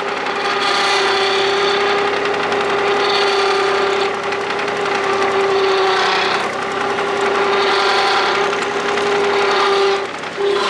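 Madvac ride-on vacuum with its Kubota D1105 three-cylinder diesel running, giving a steady whine with a rushing noise that swells and fades every two to three seconds. The sound drops briefly just before the end.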